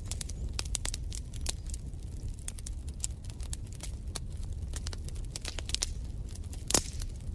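Wood fire crackling in a fireplace: a rapid, irregular run of sharp pops and snaps over a low steady rumble, with one louder pop near the end.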